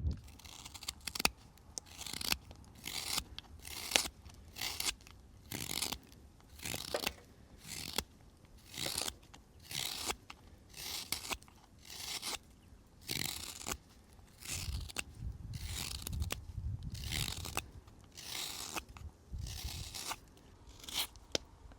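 A hook knife working in short scraping strokes, about one a second, each stroke a brief rasp.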